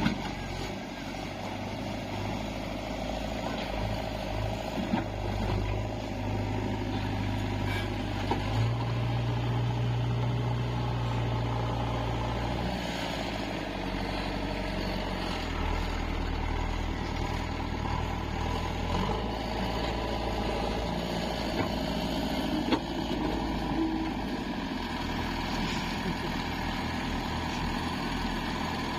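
Diesel engines of a JCB 3DX backhoe loader and tractors running at a soil-loading job, the engine note stepping up and down several times as the machines work. A couple of sharp knocks sound briefly, about eight seconds in and again near the end.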